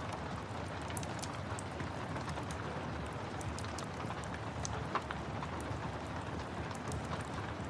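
Steady rain and a crackling wood fire: an even hiss of rain with scattered sharp pops and crackles, one louder pop about five seconds in.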